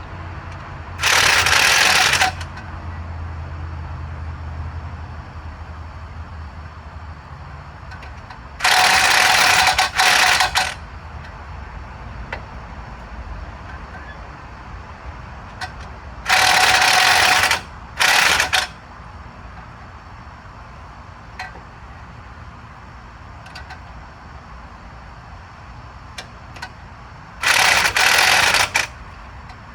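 Impact wrench running in four bursts of one to two seconds each, spread evenly apart, driving bolts tight one after another in a star pattern; the second and third bursts break off briefly and start again.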